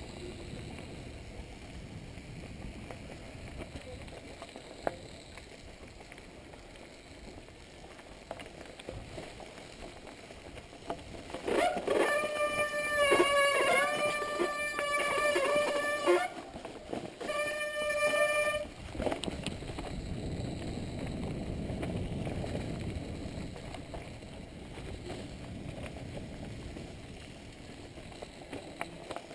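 Steady wind and riding noise on a bicycle-mounted action camera. Around the middle a wavering high-pitched tone sounds for about five seconds, stops, and comes back briefly.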